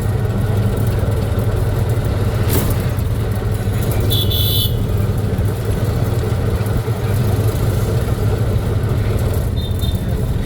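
Steady running noise of a road vehicle on the move, a constant low hum. A short high-pitched horn toot sounds about four seconds in, and a fainter one comes near the end.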